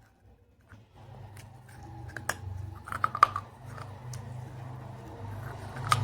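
Pieces of clay pot being bitten and crunched: sharp cracks and snaps, a cluster of loud ones between about two and three and a half seconds in and another near the end, over a low steady hum.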